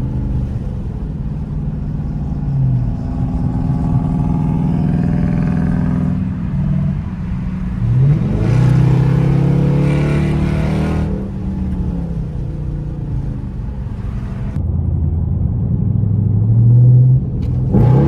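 Dodge Charger's engine with a newly fitted Hellcat exhaust, under way and accelerating. Its pitch climbs about 8 seconds in, with a loud, rasping stretch lasting about three seconds, then settles. It rises again near the end.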